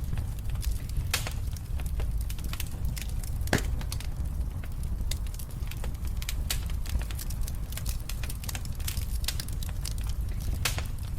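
Wood fire crackling in a fireplace: irregular sharp pops and snaps over a steady low rumble of the flames, with one louder pop about three and a half seconds in.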